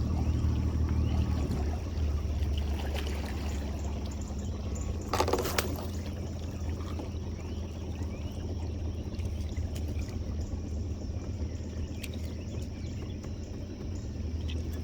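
Water trickling and splashing, as off a trotline coming up over the boat's side, over the steady low hum of a boat motor. A louder splash comes about five seconds in.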